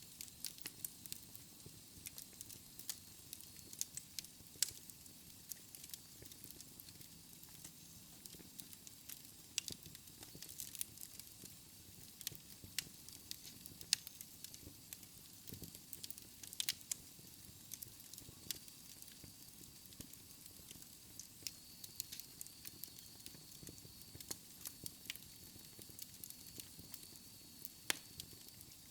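Wood fire burning in a fireplace, crackling, with irregular sharp pops and snaps of the burning logs over a faint low rumble of the flames.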